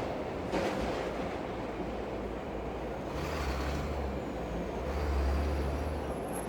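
Layered city ambience: a steady rain hiss under the low rumble of a passing train, which swells in the second half and then fades. There is a brief rush of noise about half a second in.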